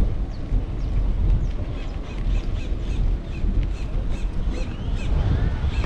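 Wind buffeting the microphone with a deep rumble while birds chirp repeatedly in short, sharp calls.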